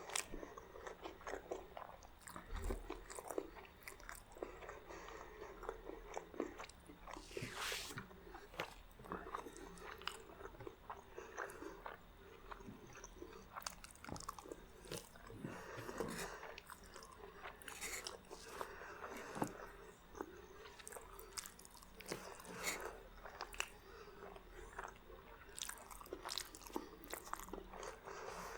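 Close-miked eating: a person chewing and biting into spaghetti and garlic bread, with irregular wet clicks and crunchy bites.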